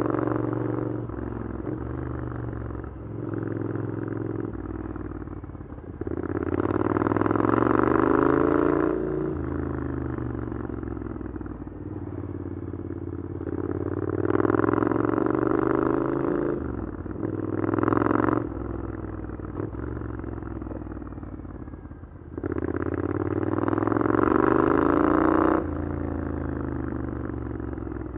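Triumph Scrambler 900's parallel-twin engine through an Arrow exhaust, pulling up through the revs four times, three longer pulls and one short blip, each rising in pitch. Between pulls it runs lower and steadier, off the throttle.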